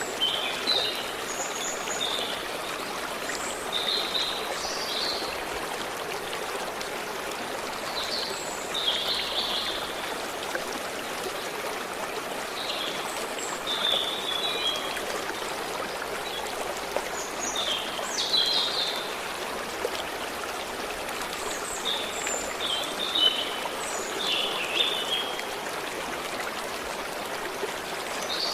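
Stream of water flowing steadily, with small birds giving scattered short, high chirps over it.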